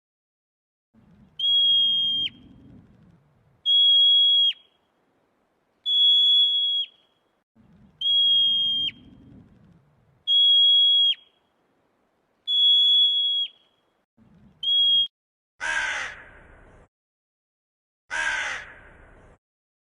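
A series of seven high whistle notes, each held steady for about a second and ending in a quick downward drop, repeated about every two seconds. Near the end come two harsh caws of a crow.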